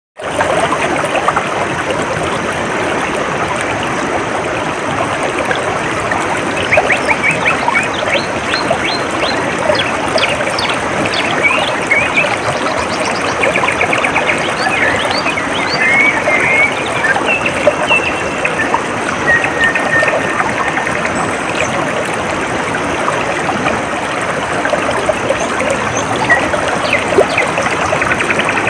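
Water trickling and running steadily, with small birds chirping and trilling over it, busiest through the middle of the stretch.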